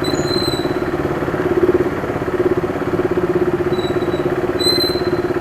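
KTM RC 390's single-cylinder engine running at steady low revs with a fast, even beat, with no revving. A thin high squeal comes in briefly near the start and again near the end.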